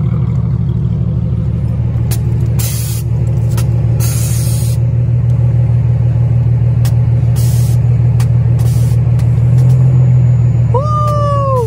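A car engine idling, a steady low rumble with an even pulse. A voice calls out near the end.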